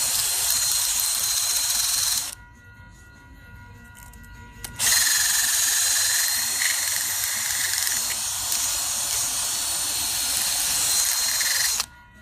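Two long, loud hisses of a pressurized jet blown through carburetor parts during a carburetor clean-out: one of about two seconds, then after a short pause one of about seven seconds. Each hiss holds a thin steady whistle.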